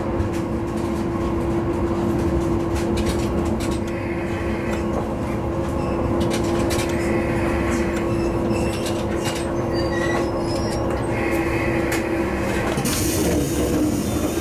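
Diesel railcar running on the rails, heard from inside: a steady engine hum with scattered clicks of the wheels over the track, and a hiss that starts near the end.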